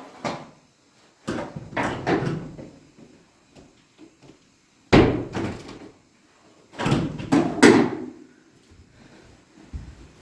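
A series of sharp thumps and bangs: two around a second or two in, one heavy bang about five seconds in, and a quick run of three near seven seconds, with quiet gaps between.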